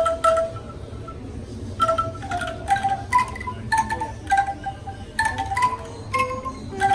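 Wind chimes ringing: irregular strikes, several a second, each leaving a short ringing note at one of several different pitches.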